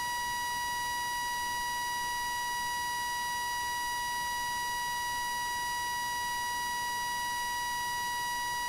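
One unbroken, steady, high-pitched electronic beep tone at an even level, with no pulsing or change.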